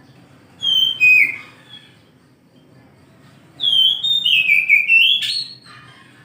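Oriental magpie-robin singing: two loud whistled phrases, a short one just over half a second in and a longer one from about three and a half seconds in that steps down in pitch and ends with a sharp higher note.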